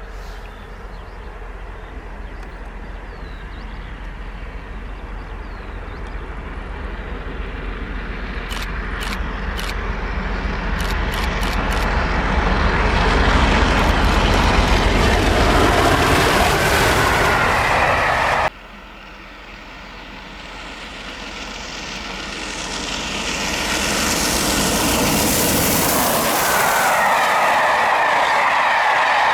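Three-cylinder Peppercorn A1 Pacific steam locomotive 60163 Tornado approaching and passing at about 90 mph with a train of coaches. The sound builds steadily to a loud peak, drops suddenly about two-thirds in, then builds again and holds loud.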